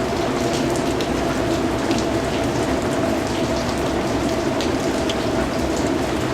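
Steady rain falling, with individual drops ticking out here and there.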